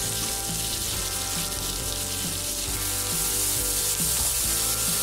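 Sliced onions, tomatoes, chillies and ginger-garlic paste sizzling in hot oil and butter in a kadhai, a steady hiss that grows a little louder in the second half as a spatula starts to stir. Background music plays throughout.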